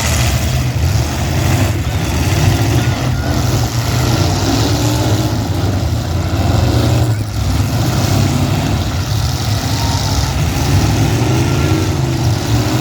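Demolition derby cars' engines running and revving, several pitches rising and falling over one another.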